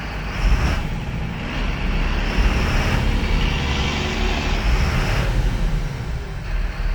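Mercedes-Benz MBE900 turbo diesel engine revved up from idle, held high for a few seconds with a high whine over the rumble, then dropping back toward idle near the end. It revs freely, a sign of a healthy engine.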